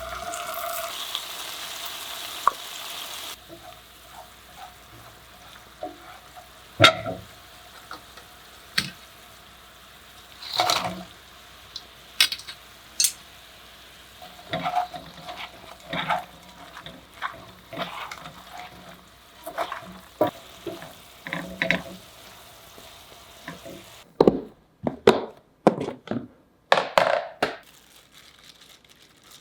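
Cooking sounds: a steady sizzle for the first three seconds or so that stops suddenly, then scattered clicks and taps of utensils on pans and dishes, with a quick run of louder knocks near the end.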